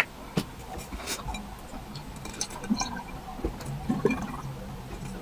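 Close-miked eating sounds: wet chewing and slurping with scattered small clicks.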